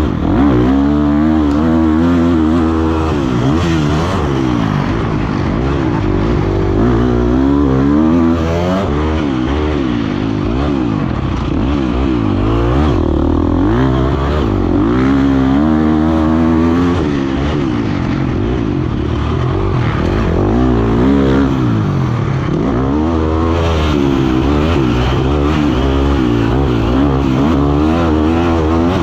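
Motocross dirt bike engine, heard close up, revving up and down over and over as the bike accelerates, shifts and backs off around the track.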